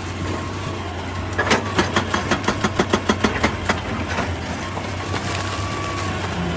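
Excavator's diesel engine running steadily, with a faint hydraulic whine. About a second and a half in, a rapid run of sharp knocks and clatter lasts a couple of seconds, the sound of rock striking rock or metal.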